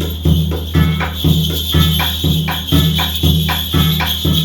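Korean shamanic ritual music: a drum struck in a steady beat about twice a second, under continuous jingling of bells.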